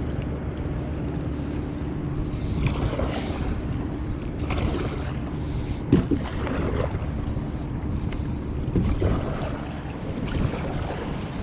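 Small waves slapping and sloshing against the side of a canoe in irregular splashes, over wind rumbling on the microphone and a steady low hum.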